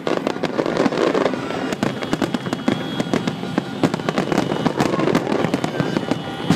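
Aerial fireworks shells bursting in quick succession: a dense, unbroken run of overlapping bangs and crackling.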